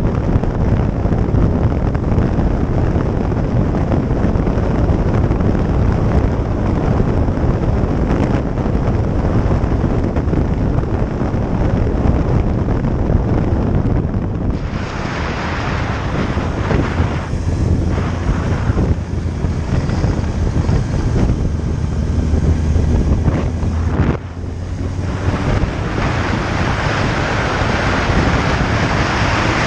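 Wind rushing over the microphone of a moving motorcycle, with a steady low engine hum underneath. The wind noise turns brighter about halfway through and dips briefly about three-quarters of the way in.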